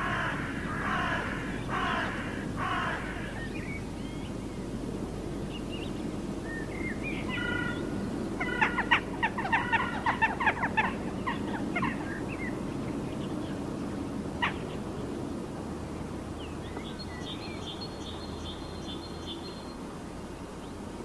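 Birds calling over a steady low background. About halfway through there is a quick run of about a dozen harsh calls, and near the end come thinner, higher calls.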